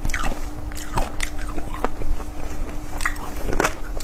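Close-miked eating sounds: biting and chewing with irregular sharp wet clicks and crunches, over a faint steady hum.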